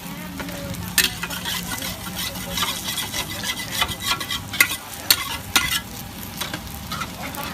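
Food sizzling in a hot pan at a street-food stall, with a cooking utensil repeatedly scraping and clacking against the pan in sharp clicks, over a steady low hum.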